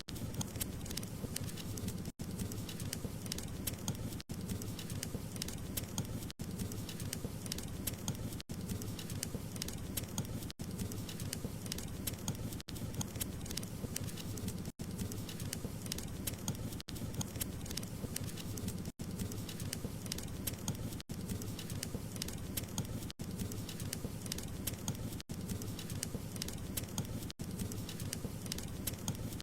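Wood fire burning with a low steady rumble and dense, sharp crackles and pops. A tiny dropout recurs about every two seconds.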